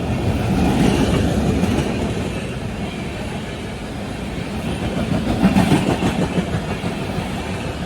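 Express passenger train running past on the track, picking up speed, with steady wheel-on-rail noise and clatter from the coaches.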